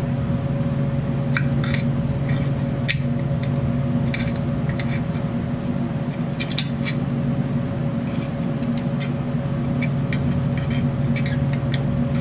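Steady machine hum, with scattered light scrapes and clicks from hand-cleaning caked oil, sawdust and grime off an old chainsaw.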